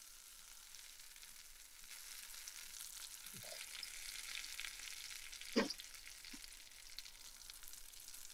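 Burger patties sizzling faintly as they sauté in bone broth in a frying pan, a little louder from about two seconds in. A brief knock comes about halfway through.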